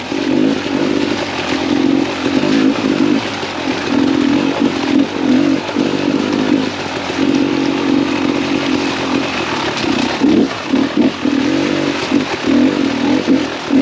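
2017 Beta 300 RR two-stroke enduro engine running under varying throttle while being ridden. In the second half the throttle is chopped and reopened several times in quick succession.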